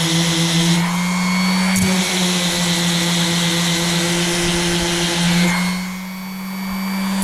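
Electric random orbital sander running steadily with a hook-and-loop sanding disc, a buzzing hum with a grinding hiss. It drops in loudness for about a second near the end.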